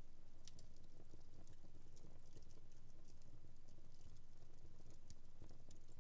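Wood fire burning in a fireplace: a faint low rumble with small, irregular crackles and pops.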